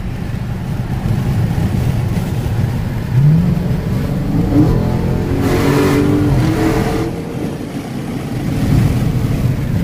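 Dodge Charger Daytona 392's 6.4-litre HEMI V8 under hard acceleration at highway speed, heard from inside the cabin with the windows cracked. The engine note rises in pitch from about three seconds in and is loudest around the middle.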